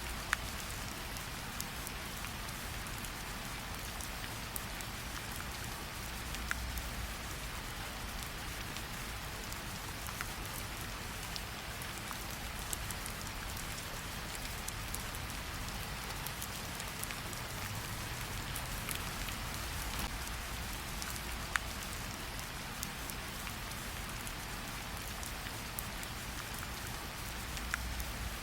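Steady rain falling, with a low rumble beneath it and occasional sharp crackles and pops from a wood fire.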